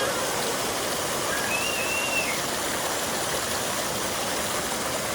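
Valley stream running steadily, a continuous even rush of flowing water.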